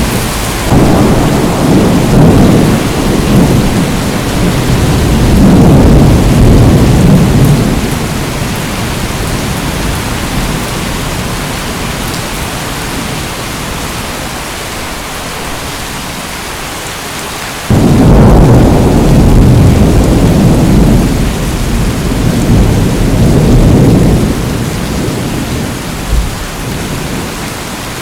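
Steady heavy rain with two long rolls of thunder: one swells in about a second in and fades after several seconds, the second comes in suddenly about two-thirds of the way through and rumbles for several seconds before dying away.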